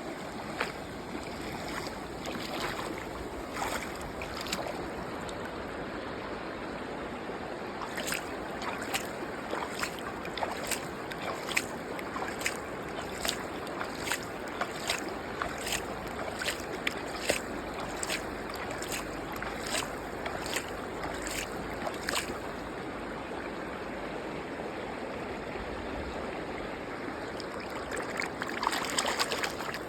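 Running water with a steady rush, under a series of sharp clicks about one and a half a second through the middle and a louder clatter of clicks near the end.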